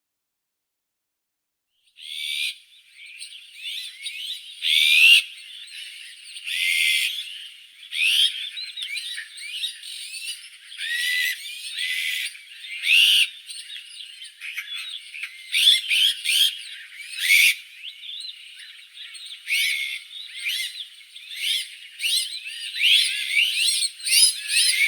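Azure-winged magpies calling, several birds at once, with a busy stream of short rising and falling call notes. The calls start abruptly about two seconds in and continue with frequent louder calls over a constant background of quieter ones.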